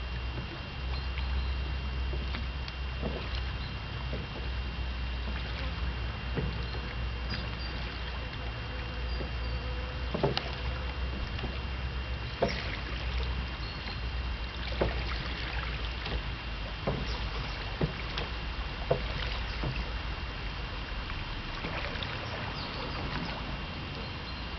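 A small boat out on the water: a steady low rumble with water noise, and a few separate sharp knocks.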